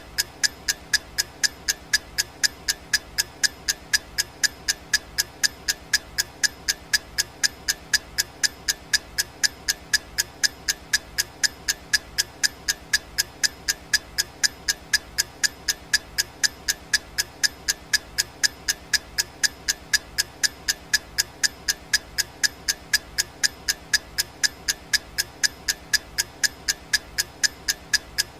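Clock ticking: an unbroken, evenly spaced run of sharp ticks, a few a second, keeping time for a countdown timer.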